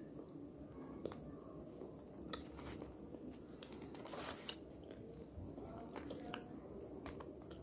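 A person biting and chewing crunchy pieces of edible clay and slate close to the microphone: sharp, separate crunches every second or two, with quieter chewing between them.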